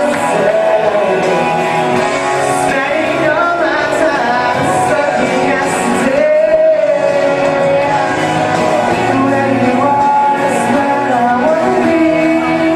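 A male singer performing live over instrumental backing, holding long sung notes that bend in pitch.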